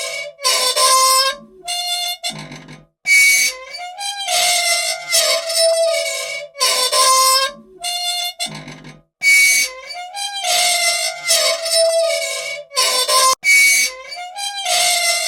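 An old machine squeaking: a string of loud, pitched squeals that slide a little up and down, with short breaks between them. The sequence repeats about every six seconds.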